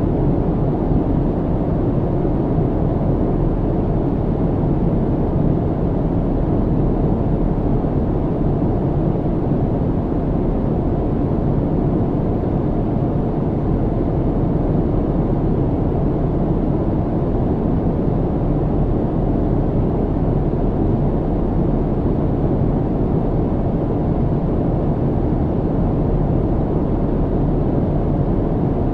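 Steady airplane cabin noise in flight: an even, unbroken low rumble and hiss with no changes.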